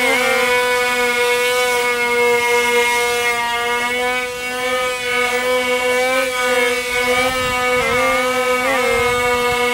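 Steady high-pitched whine of the XK X420 VTOL RC airplane's small brushed motors and propellers, holding pitch with brief wobbles a few times, mostly near the end.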